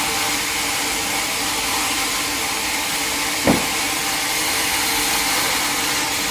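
Sawmill machinery running steadily, a motor hum with a hiss above it, with a single knock about halfway through.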